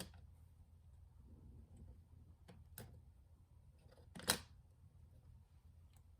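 A few separate small clicks from handling small parts and tools, the loudest a sharper click about four seconds in, over a low steady hum.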